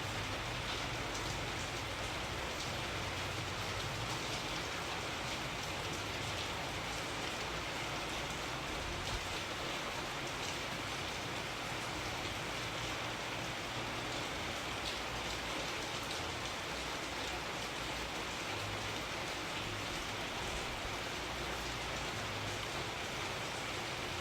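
Steady rain falling on a surface, an even hiss with many small drop ticks and a low rumble beneath.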